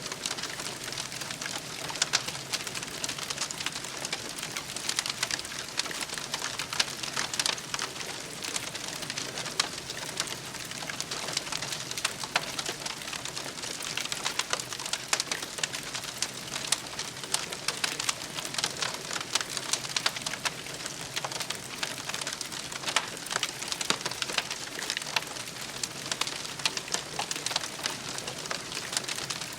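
Wood campfire crackling: a steady hiss with frequent irregular sharp pops.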